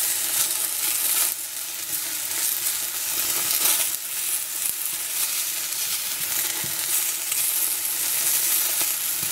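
Sliced stinkhorn eggs sizzling in hot vegetable oil in a frying pan, with a wooden slotted spatula scraping the pan as it turns them now and then.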